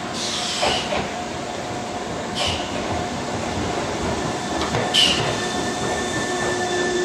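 Keisei commuter train pulling in alongside the platform, with a steady rumble and hum and short high squeals from its wheels or brakes every two to three seconds.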